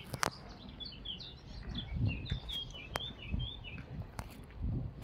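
A small songbird singing a quick run of short, high chirps that stops about four seconds in. A few low thumps and sharp clicks sound underneath.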